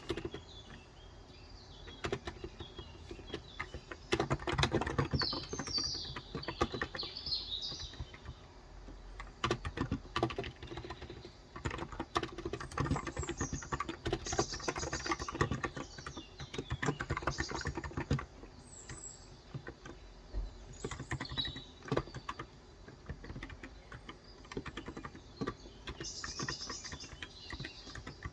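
Typing on a Cox Endeavour electro-capacitive (Topre-style) 35 g tenkeyless keyboard, in runs of quick keystrokes with short pauses between them. Birds chirp in the background several times.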